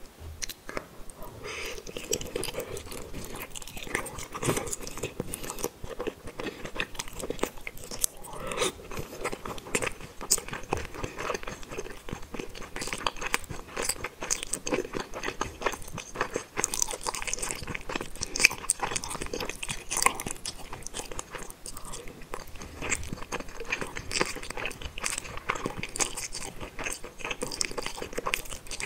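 Close-miked chewing and mouth sounds of someone eating spicy tteokbokki rice cakes and fish balls, a continuous run of many small clicks with louder bites now and then.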